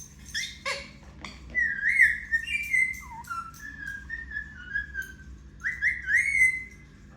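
Indian ringneck parrot whistling a string of short notes that slide up and down, after a second or so of sharp clicks and chatter.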